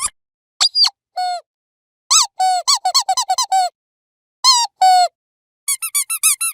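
Rubber squeaky dog toy squeezed in quick bursts of short, high squeaks with silent gaps between them; the pitch of each squeak dips and rises.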